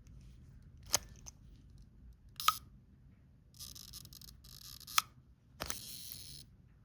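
Minox B subminiature camera: three sharp shutter clicks about a second in, two and a half seconds in and five seconds in, with longer scraping sounds from the camera being handled between the later clicks.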